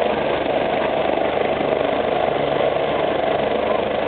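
MBB/Kawasaki BK117 twin-turbine rescue helicopter running steadily, turbines and rotor going without change.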